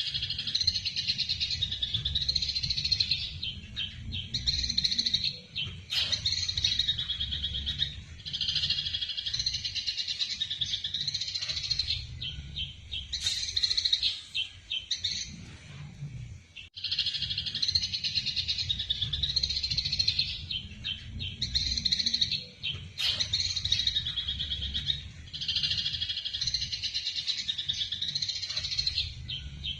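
Eurasian tree sparrows chattering in dense runs of rapid, harsh chirps, the agitated calls of sparrows squabbling, in phrases a few seconds long with a short break about halfway through. A steady low hum runs underneath.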